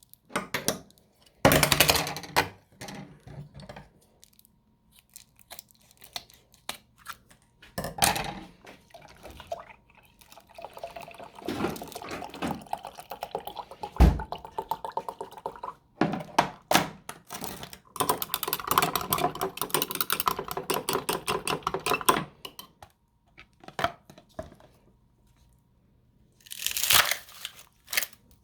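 Hand preparation of an iced mocha: liquid poured into a glass in two stretches, between separate knocks, rustles and handling noises, with one heavy thump about halfway through.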